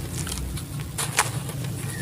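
Black sand-cement chunks crumbling, with short gritty crackles, the strongest about a second in, over a low steady hum.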